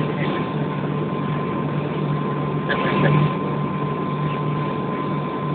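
Airliner cabin drone: the aircraft's engines give a steady low hum with a thin, constant higher tone above it.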